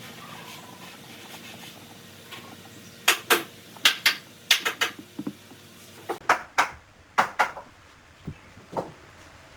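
A series of about fifteen sharp knocks in quick groups of two or three, starting about three seconds in, after a stretch of faint steady background.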